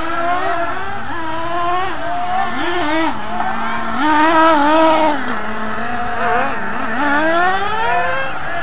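Monster truck engine being revved during warm-up, its pitch climbing and dropping over and over, settling briefly near idle past the middle and then rising in a longer rev near the end.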